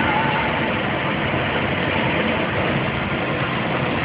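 Scania truck on the move, heard from inside the cab: a steady drone of engine and road noise.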